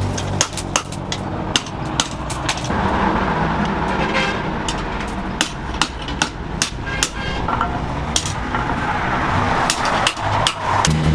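Hammer striking metal at a blacksmith's forge: repeated irregular ringing blows, over a steady rushing noise that swells in a little after the start and fades near the end. A low steady hum comes in right at the end.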